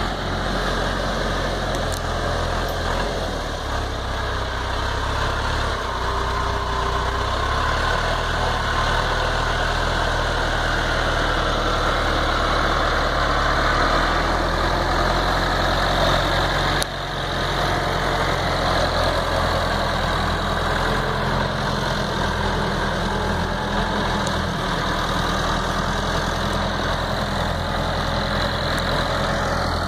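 Tractor engine running steadily, with one brief break a little past the middle.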